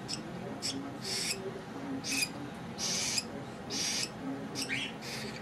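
Baby birds giving short, high-pitched, raspy begging chirps, about seven calls in a few seconds at an uneven pace.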